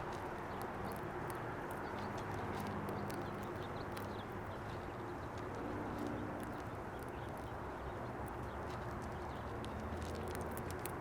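Many small, sharp clicks and taps of animals feeding at a bird feeder, pecking and cracking seed, over a steady outdoor rumble.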